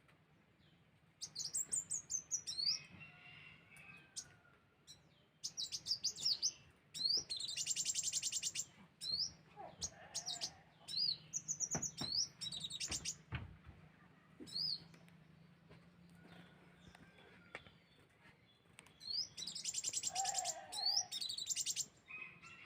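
Kolibri wulung sunbird song used as a lure call: bursts of high, sharp chirps and fast, rattling trills, separated by short pauses.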